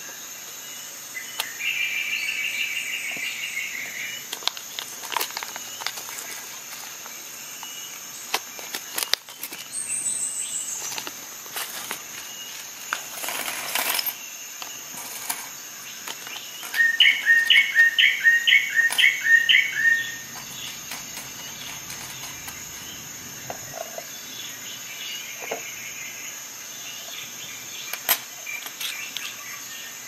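A bird chirping in the background, with a loud run of about ten quick repeated chirps in the second half, over a steady high-pitched drone. Light clicks and taps of small metal parts being handled on a tabletop.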